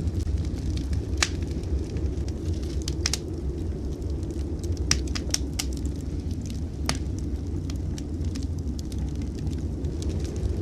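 Wood fire crackling in a fireplace, with scattered sharp pops, over a steady low rumble of blizzard wind.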